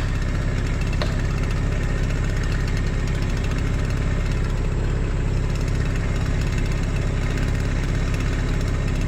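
An engine idling steadily, a low even running sound with no change in speed.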